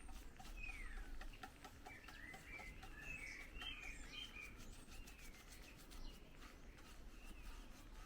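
Faint bird calls: short gliding chirps, busiest in the middle, over a steady low hum.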